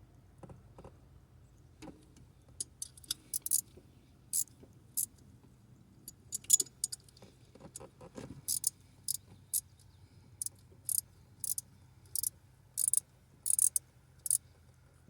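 Hand ratchet clicking in short, irregular bursts as it is swung back and forth, working a fastener into a broken exhaust-stud hole that is binding.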